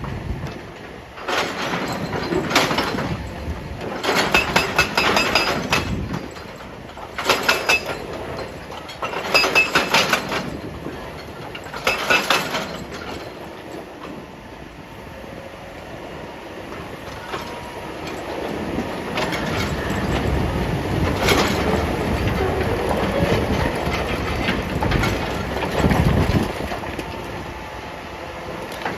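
Excavator-mounted hydraulic breaker hammering rock in about five short bursts of rapid blows over the first twelve seconds. After that the excavator's engine runs steadily under working load, growing louder, with a few single knocks.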